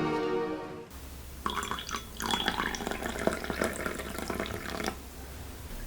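Background music ending in the first second, then water running from a tap with small clinks for about three and a half seconds.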